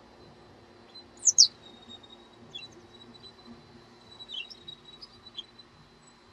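Birds chirping: two quick, high, downward-sweeping chirps about a second in, then a few scattered fainter short calls.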